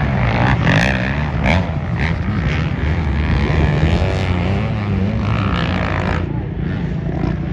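Off-road racing engines from dirt bikes or ATVs running and revving, their pitch rising and falling continuously as the machines accelerate and back off.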